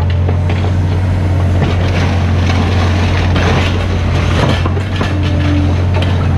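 Mini excavator's diesel engine running steadily under load, with irregular crunching and scraping of broken material.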